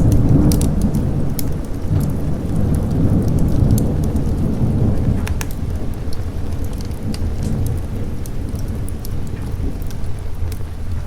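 A roll of thunder that breaks in suddenly and rumbles low for about five seconds before easing off, over steady rain. Scattered sharp crackles run through it.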